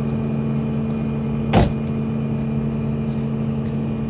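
A truck hood pushed shut and latching with one sharp clunk about a second and a half in, over the steady hum of an idling truck engine.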